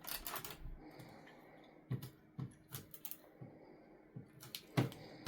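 A basset hound mouthing a hard chew bone: scattered light clicks and knocks, about half a dozen, from the bone against teeth or floor.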